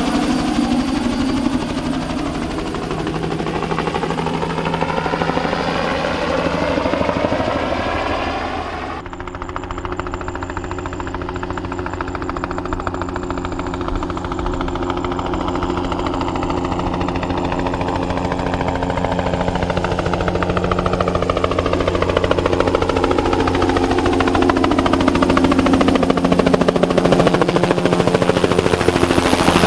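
Bell 206B-3 JetRanger III helicopter's turbine engine and rotor running as it flies low spraying passes, the sound swelling and fading with a sweeping, phasing tone as it moves past. It dips briefly about a third of the way in and grows louder toward the end as the helicopter comes closer.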